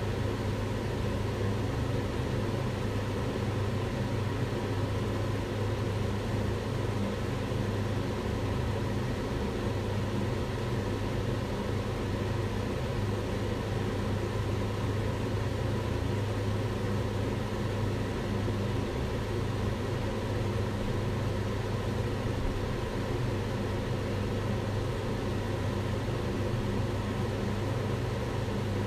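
Kitchen range hood extractor fan running steadily: an even rushing hiss over a low hum, with no change in speed.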